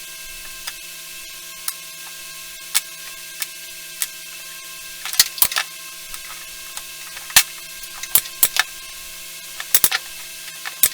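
A steady electrical hum with scattered sharp clicks and taps, which come more often in the second half.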